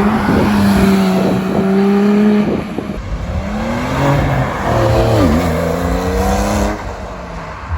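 Sports car engine running loudly as a car moves out through the show. Its pitch holds steady for a couple of seconds, then dips and climbs again as the engine is revved, before fading near the end.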